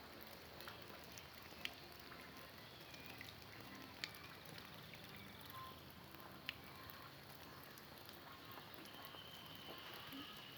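Faint, even background hiss broken by three separate sharp clicks, with a few faint, short whistle-like tones.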